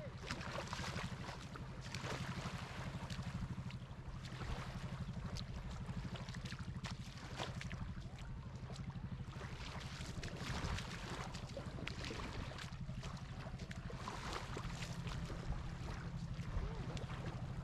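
An engine running steadily with a low, even hum, under rushing wind noise.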